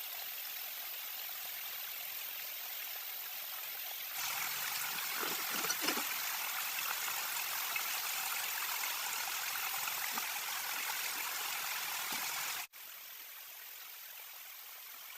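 Water running steadily, like a stream or flowing water, louder from about four seconds in and then dropping abruptly to a quieter flow near the end.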